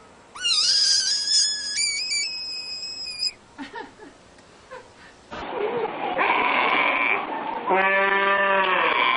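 A high whistled animal call that steps up in pitch for about three seconds. About five seconds in, a goat starts bleating loudly in long, wavering cries, the last one strongly pitched.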